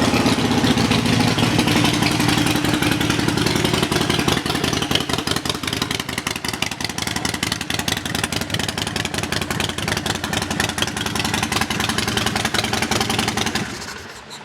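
Harley-Davidson Sportster 1200 Custom's air-cooled V-twin idling through an aftermarket Vance & Hines exhaust shortly after starting. The idle is slightly higher in the first few seconds, then settles into a steady, even lope. The engine is shut off near the end.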